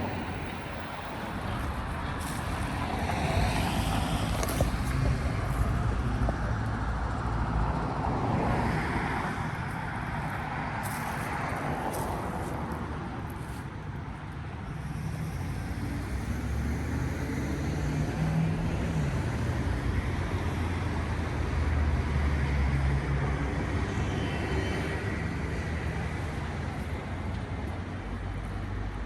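Road traffic: a steady low rumble with several cars passing by, each swelling up and fading away.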